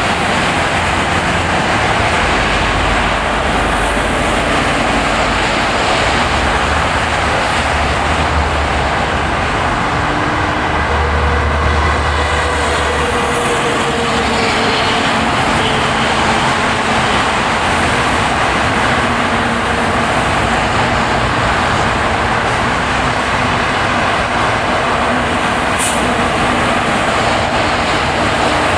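Steady road noise of a car driving on snow-plowed roads: tyre and engine noise blending into one constant rumble.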